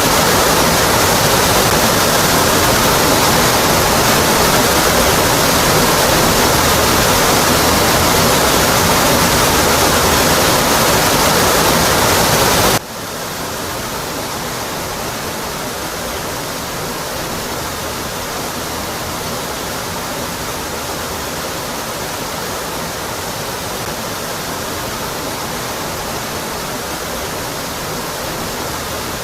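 Waterfall rushing steadily, water pouring onto rock. About 13 seconds in the sound drops suddenly to a quieter, thinner rush and carries on steadily.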